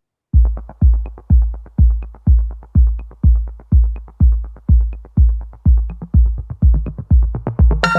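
Electronic music intro: a drum-machine kick beat starting just after the opening, a little over two kicks a second, with a light higher tick about once a second. Near the end a keyboard synth chord comes in over the beat.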